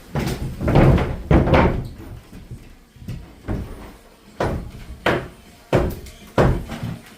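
Hammer blows on timber during rafter framing: about a dozen sharp, irregularly spaced knocks, with a short pause about three seconds in.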